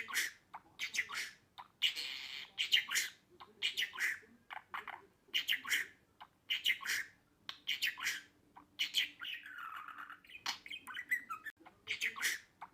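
Budgerigar chatter: quick clusters of sharp chirps and squawks, with a softer, lower warble about nine seconds in.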